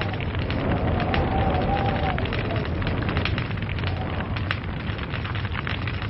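Wood log fire crackling and popping, many quick sharp snaps over a steady low rumble of the flames.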